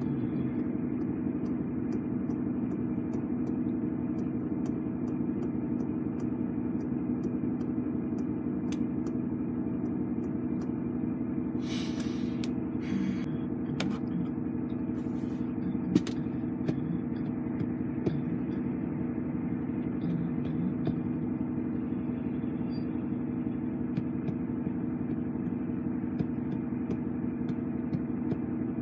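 Lorry's diesel engine running steadily while driving, heard from inside the cab, with a few short hisses about halfway through.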